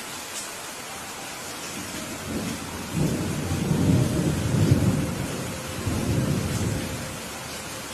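Steady rain with a roll of thunder that builds about two seconds in, rumbles loudest in the middle and dies away near the end.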